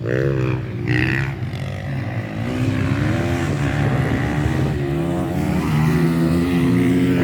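Motocross bikes' engines revving hard on the track, pitch rising and falling over and over with throttle and gear changes, more than one bike at once.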